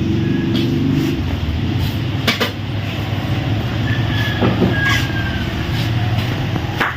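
An engine idling with a steady low hum, fuller in the first second, with a few faint clicks over it.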